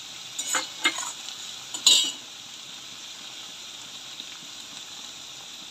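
Raw shrimp sizzling steadily in hot oil with fried onions in a kadai. A steel spatula knocks and scrapes against the pan a few times in the first two seconds, loudest at about two seconds in.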